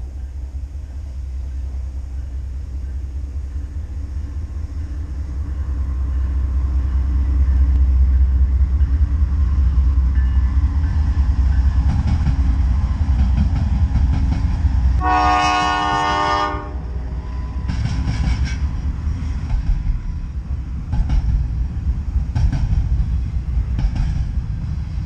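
Norfolk Southern diesel freight train approaching and passing, its deep engine rumble growing louder. A train horn blows once for about a second and a half about fifteen seconds in. Afterwards the container cars roll by, their wheels clacking over the rails.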